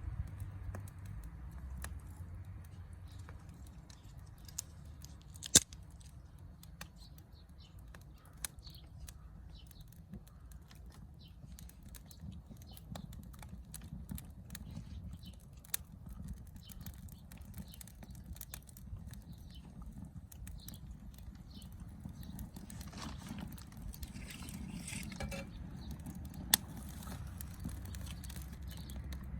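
Wood fire crackling: irregular small snaps over a low rumble, with two sharp pops, one about five seconds in and one near the end.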